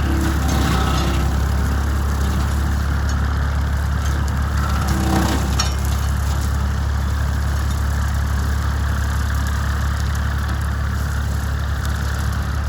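Small tractor's engine running steadily while driving a large, nearly two-metre brush cutter, with a brief louder stretch about five seconds in.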